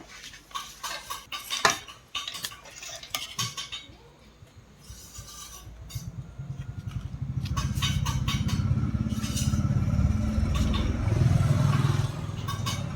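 Light clinks and clatter of small hard objects. About halfway through, a low, pulsing rumble like a motor running comes in, builds, and holds.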